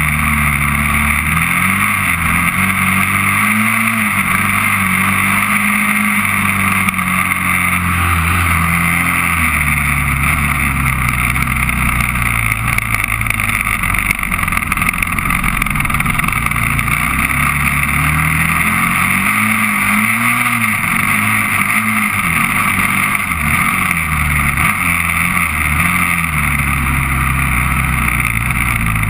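Honda TRX400EX ATV's single-cylinder four-stroke engine running under way, its pitch repeatedly rising and falling as the throttle is opened and eased off, over a steady rushing noise.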